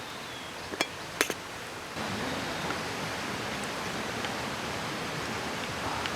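Steady rushing hiss of a mountain stream, with two light clinks about a second in; the hiss grows louder about two seconds in.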